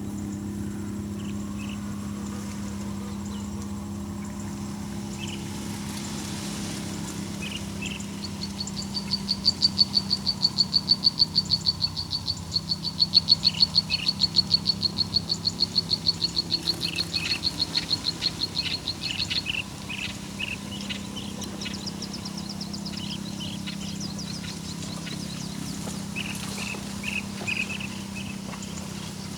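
Hungry nestling birds begging: a loud, rapid run of high peeps lasting about ten seconds from roughly a third of the way in, with short chirps scattered throughout, over a steady low hum.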